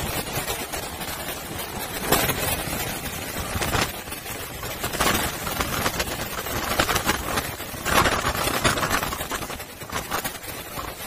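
Strong typhoon wind and rough sea: a steady rushing noise that surges every second or two, from gusts on the microphone or breaking waves, strongest about two and eight seconds in.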